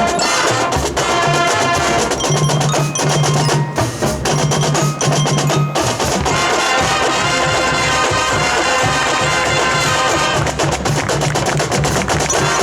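High school marching band playing: brass chords over drums, with mallet percussion such as bells and glockenspiel and a wood block ringing through.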